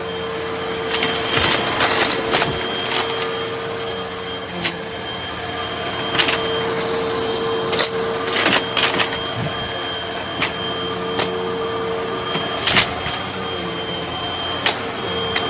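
Hoover vacuum cleaner running with a steady motor whine, sucking up small crunchy debris that crackles and clicks irregularly through the hose.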